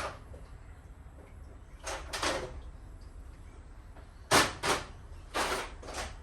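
Hand tools being handled while working on a seized water pump bolt: short clanks and scrapes of metal, a pair about two seconds in and four more close together near the end.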